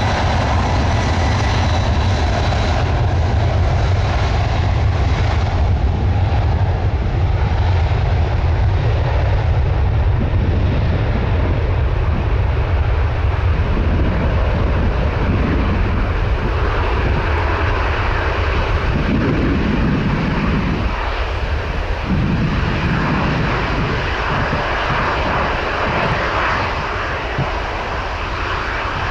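Jet airliner's engines at takeoff power, a loud steady rumble that eases slightly near the end.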